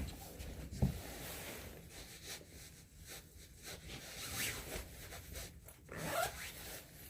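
Shoes being put on: rustling and short zipper-like rasps, with a soft thump about a second in.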